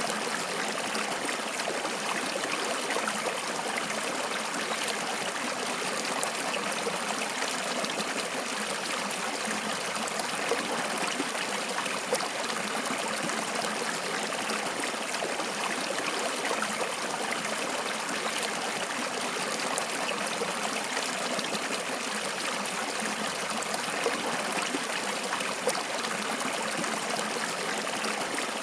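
Water flowing steadily, a continuous rushing and trickling, with a few brief louder spots here and there.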